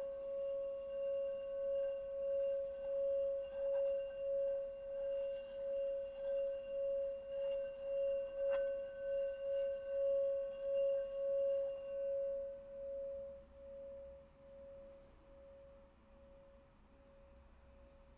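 Singing bowl held sounding as one steady, wavering tone with a faint ring of overtones, its loudness pulsing in slow beats; a little past the middle there is one light click. About two-thirds of the way through the tone stops being sustained and dies away gradually to nearly nothing.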